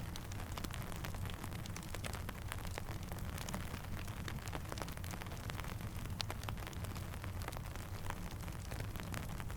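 Steady rain mixed with a crackling campfire: a constant hiss over a low rumble, dotted with many small, irregular sharp pops.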